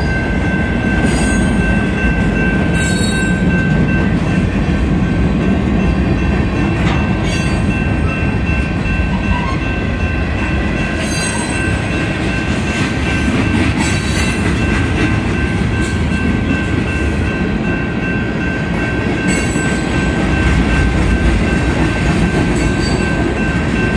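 Freight cars of a long manifest train rolling past the grade crossing: a steady loud rumble of wheels on rail with a thin high squeal held throughout and an occasional sharp clank every few seconds.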